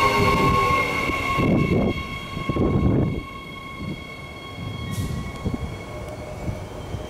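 Queensland Rail electric train passing, its running noise carrying a high steady whine that slowly fades. The low rumble drops away sharply about three seconds in as the train moves off.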